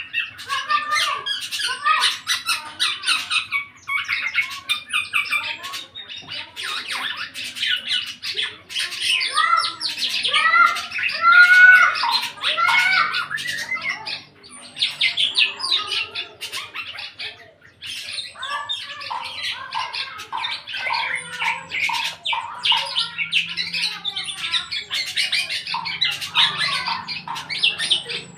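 Eight-month-old black-naped oriole (kepodang) singing vigorously, just starting into full song: a dense, nearly unbroken stream of rapid squawky whistled notes and chatter, with two short breaks around the middle.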